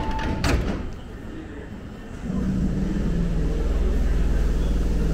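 A single clunk about half a second in, then a steady low hum from an electric commuter train standing at the platform, which sets in about two seconds in.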